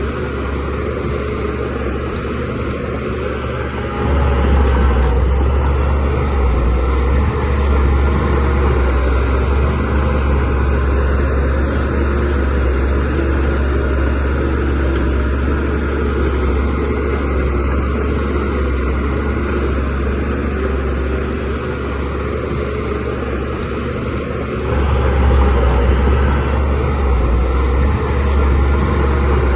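Shantui DH17C3Pro bulldozer's diesel engine working with a steady low drone. It gets louder about four seconds in, eases back slightly later, and rises again near the end.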